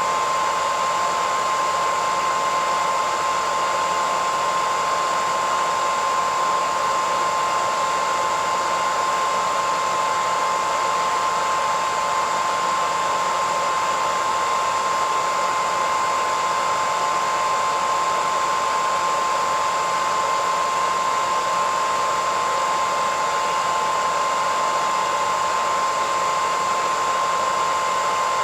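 Hairdryer running continuously at a constant setting: a steady rush of air with a fixed high whine from its motor and fan.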